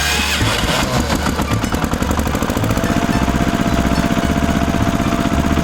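A small engine running with a fast, even chugging pulse; a thin steady whine joins in about halfway through.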